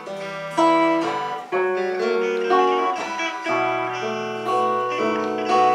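Guitar playing the instrumental break of a romance: a melody of plucked notes over held chords, with no singing.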